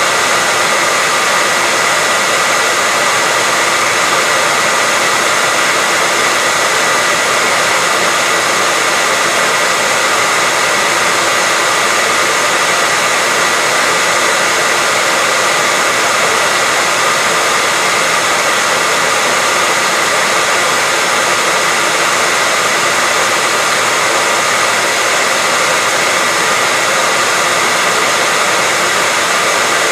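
Hairdryer running steadily: an unbroken rush of airflow with a faint steady whine from the motor and fan.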